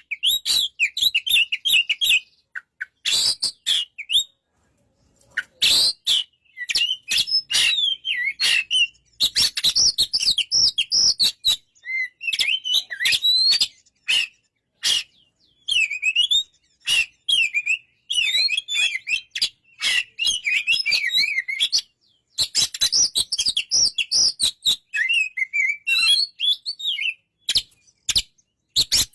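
Oriental magpie-robin singing: fast, varied whistled phrases in bursts of a few seconds, separated by short pauses and laced with sharp clicking notes.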